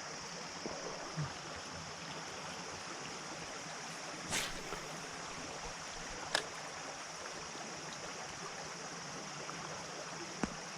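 Creek water running steadily, with a few brief clicks or knocks, the clearest about four seconds in and another about six seconds in.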